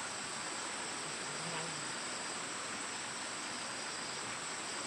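Steady chorus of insects: a continuous high-pitched buzz that does not change.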